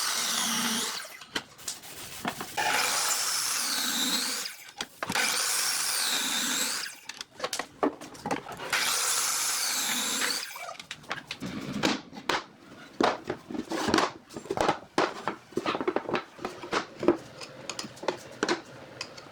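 A handheld power tool working wood in four passes of about two seconds each, its pitch wavering during each pass. From about halfway through it stops, and a long run of sharp wooden knocks and taps follows.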